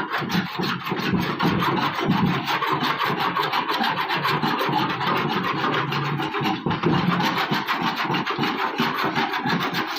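Continuous, steady rasping scrape of paint being sanded off a car's sheet-metal body panel.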